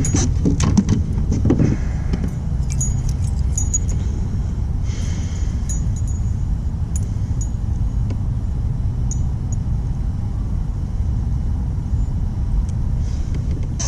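Wind buffeting the microphone as a steady low rumble, with scattered light metallic clinks and ticks of fishing tackle being handled while a lure is changed.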